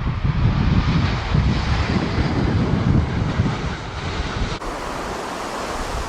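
Strong gusting wind buffeting the microphone, with the steady rush of a jet airliner's engines behind it. A little over four and a half seconds in, the sound changes abruptly and the low wind rumble drops away.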